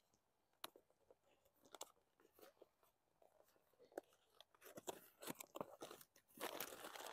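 Cardboard box and packaging being opened by hand: faint scattered clicks and rustles at first, then from about four and a half seconds in a busier, louder spell of rustling and handling noise as the packaging comes apart.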